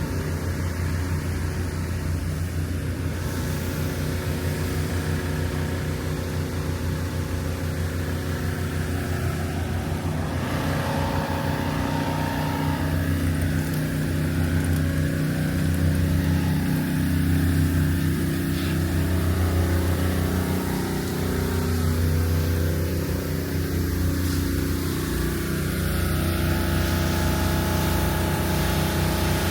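A steady, low engine hum: a motor running at a constant speed, its tone shifting slightly about ten seconds in.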